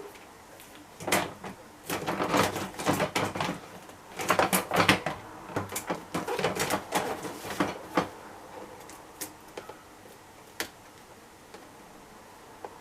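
Plastic accessories and packaging being handled and unwrapped: irregular rustling, clicks and light clatter for most of the first eight seconds, then a few single clicks.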